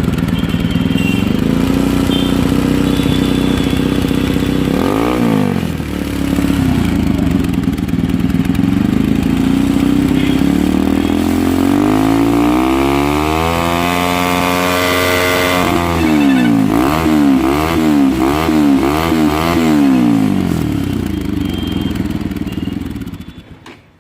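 Bajaj Pulsar NS200's single-cylinder engine through an aftermarket Akrapovic-replica exhaust with its dB killer fitted. It idles, is blipped once about five seconds in, then revs slowly up and holds high. After that comes a run of about five quick throttle blips, then it settles to idle and fades out near the end.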